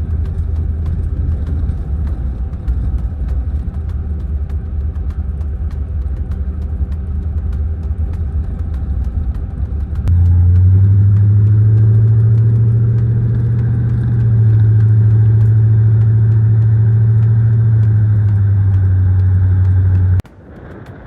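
Road vehicle driving: a steady low engine and road drone. It gets louder and slightly higher about halfway through, dips briefly, then cuts off suddenly near the end.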